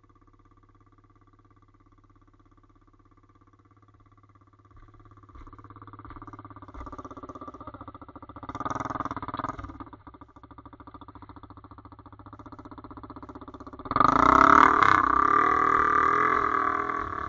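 Pit bike engine ticking over quietly, then revving up from about five seconds in. There is a short louder burst of throttle near the middle and a loud stretch of high revs over the last three seconds, which eases off at the very end.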